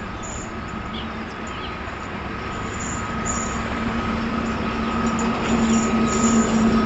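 Indian Railways passenger train running on the track, slowly growing louder as it approaches, with a steady high whine and a low hum over the rumble of the wheels.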